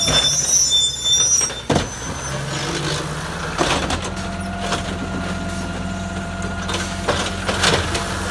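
Garbage truck engine running steadily, with several sharp knocks and clanks and a high squeal in the first second or so.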